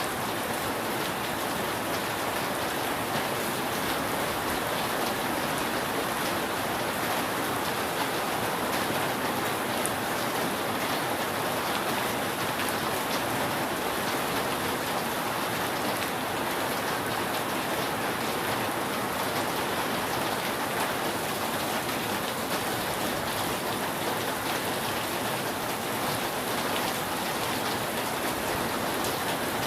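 Steady rain falling on a roof, an even patter of many drops with no thunder.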